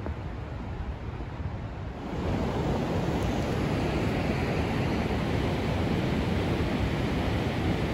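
Rushing water of the New River's Sandstone Falls: a steady, even roar that grows louder about two seconds in.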